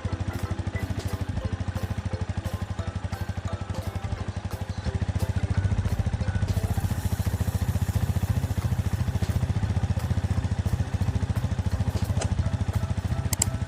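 An engine running steadily with a rapid low putter, getting a little louder about five seconds in.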